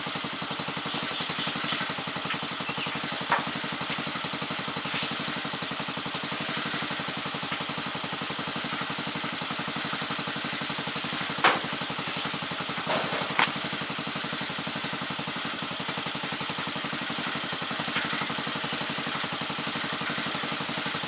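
A cargo tricycle's small engine idling steadily, with a few short sharp clicks or knocks over the top.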